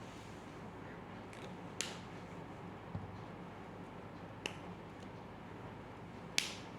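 A handful of short, sharp clicks spaced irregularly, the loudest about six and a half seconds in, over a steady faint hum and hiss.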